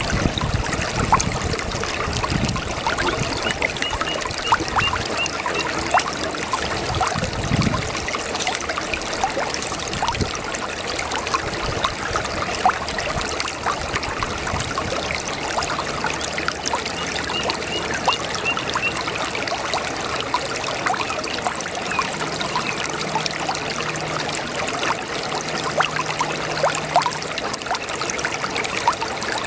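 Babbling brook: shallow running water trickling and gurgling steadily.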